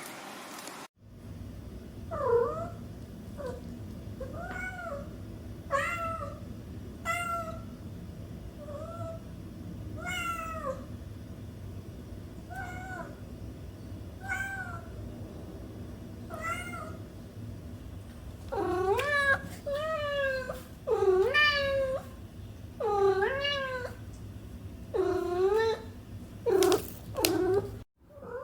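Kitten meowing over and over in short, high calls about one a second. In the second half the calls grow louder, longer and closer together. A steady low hum runs underneath.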